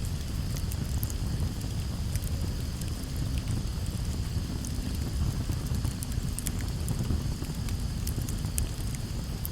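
Campfire burning: a steady low rumble with scattered, irregular sharp crackles and pops of the burning wood.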